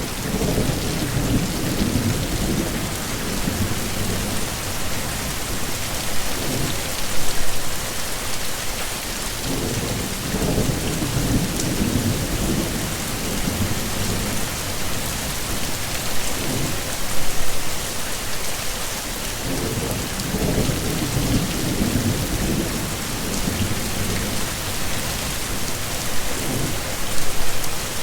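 Heavy, steady rain hissing, with low rolls of thunder rumbling in and out three times, about ten seconds apart. Short louder peaks also come at about the same spacing.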